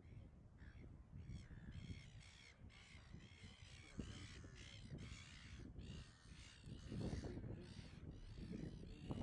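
A flock of birds calling faintly, many short, overlapping cries several times a second, over a low rumble of wind.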